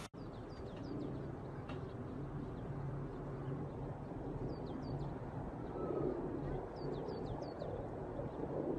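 Small birds chirping: short, high, downward-sliding chirps in little clusters of two or three, over a steady low background rumble.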